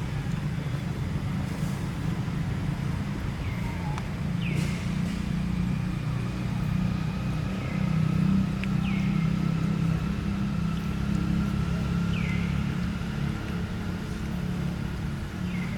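Steady low rumble, as of a motor running, with about six short high chirps falling in pitch, a few seconds apart.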